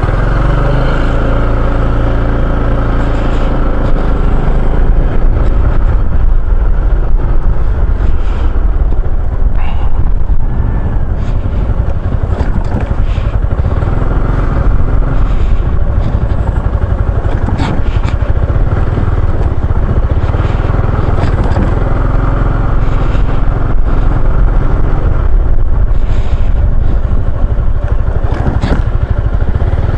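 Maxi-scooter riding on the road: the engine runs loud and steady under a heavy rush of wind noise, its pitch shifting now and then with speed.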